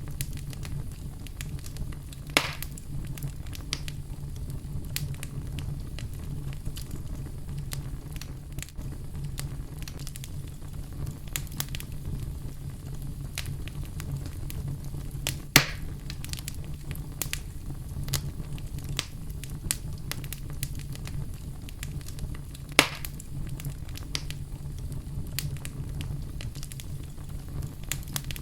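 Fire burning in a fireplace, crackling steadily over a low rumble, with three louder pops about two, fifteen and twenty-three seconds in.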